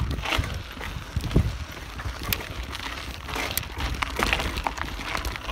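Bicycle being ridden over a dirt track: tyres crunching and the bike rattling with scattered clicks, over a steady rumble of wind on the bike-mounted phone's microphone.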